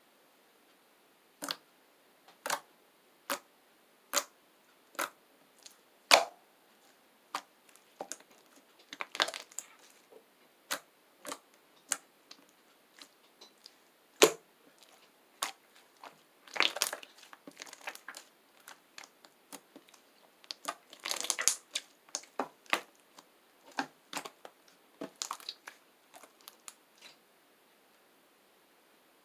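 Chocolate slime being pressed and squeezed by hand, giving sharp popping clicks of trapped air about once a second, then denser crackling clusters of pops twice later on.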